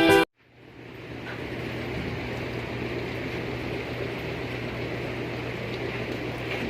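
Music stops abruptly. A steady mechanical drone with a constant low hum then fades in and runs evenly, like a machine or engine running in the workshop.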